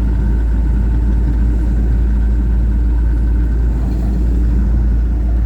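Loaded truck's engine running steadily, a deep even rumble with no change in speed.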